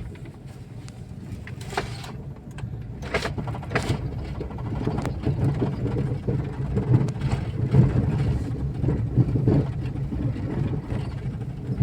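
Car engine and road noise heard from inside the moving car: a steady low hum that grows louder a few seconds in, with a few short knocks.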